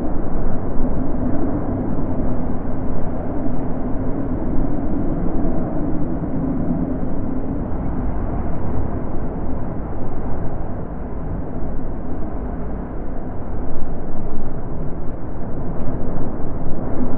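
Wind blowing steadily with a deep rushing sound, swelling and easing in slow gusts.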